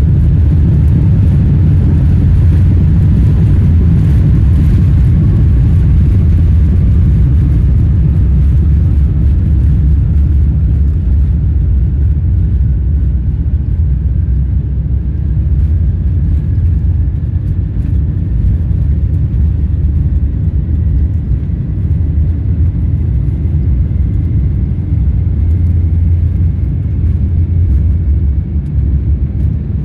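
Boeing 747-8i's GEnx engines at takeoff power, heard from inside the cabin as a loud, steady, deep rumble. A faint whine rises slowly in pitch throughout.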